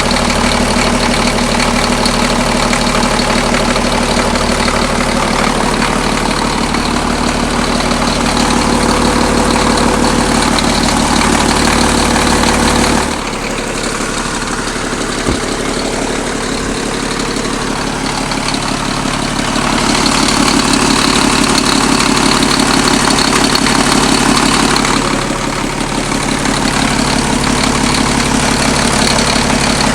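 Caterpillar D6B dozer's diesel engine running steadily at idle on its first test run after repair. About halfway through the deep low rumble drops away and the sound thins, then it fills out again.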